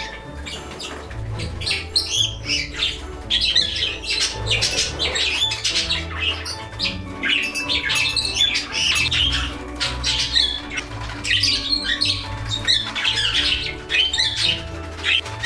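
A room full of pet parakeets and cockatiels squawking and chirping in a busy, overlapping chorus, with background music underneath.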